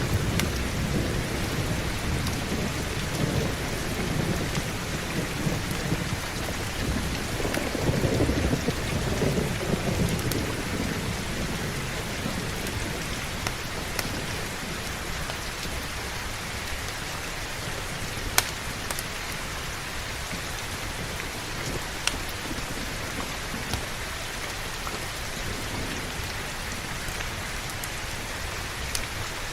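Heavy rain falling steadily, with low thunder rumbling through the first ten seconds or so and fading away. A few single sharp pops stand out later.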